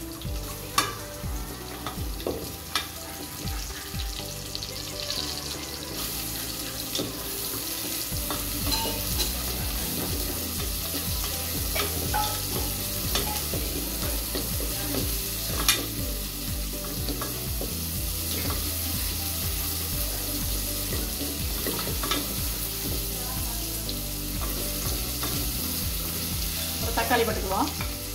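Sliced onions sizzling in hot oil with whole spices in a pressure cooker, stirred with a wooden spatula that scrapes and knocks against the pot now and then. The sizzling gets louder about six seconds in.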